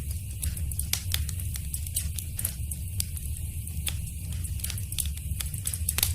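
Wood fire crackling in a fireplace: irregular sharp pops and snaps over a steady low rumble of the flames, with the loudest pop near the end.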